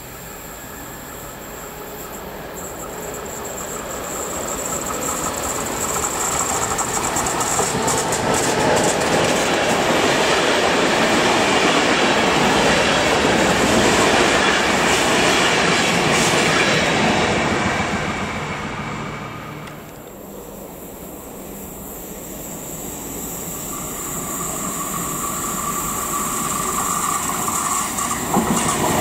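A locomotive-hauled train of ÖBB passenger coaches passes close by, its noise swelling to a peak around the middle and fading. Then an SÜWEX Stadler FLIRT electric multiple unit approaches, growing steadily louder with a steady high tone over its running noise.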